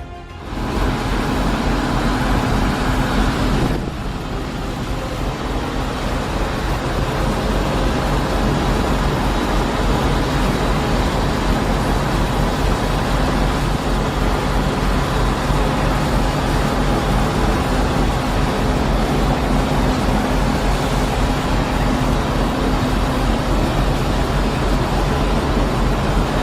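A large engine running steadily: a continuous loud drone with a deep hum underneath. There is a short break and change in the sound about four seconds in.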